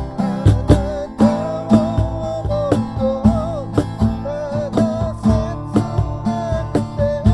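Music: an acoustic guitar strummed in a steady rhythm under a wavering melody line, with no words sung.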